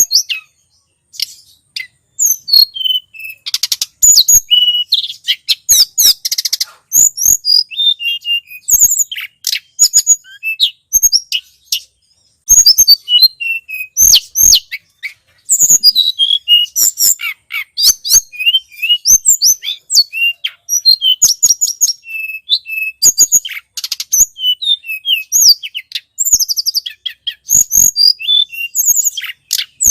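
Tledekan gunung bird song from a bird-lure recording: rapid, high chirps and twittering trills in dense runs, broken by short pauses.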